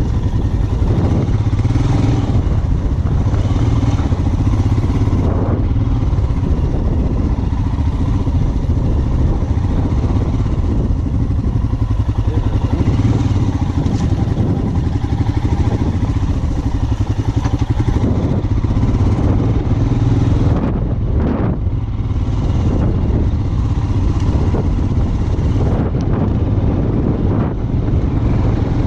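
Royal Enfield Himalayan 411's single-cylinder engine running steadily at low speed, pulling the bike over a rough off-road trail. The engine note dips briefly a little past the two-thirds point.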